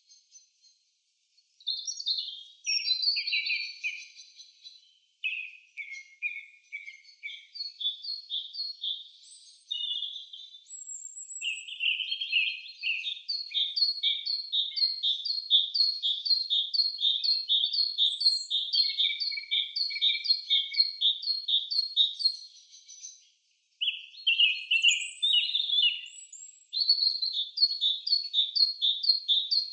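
Birds singing: varied high chirps at first, then from about twelve seconds in a fast run of repeated chirping notes, several each second, breaking off briefly twice near the end.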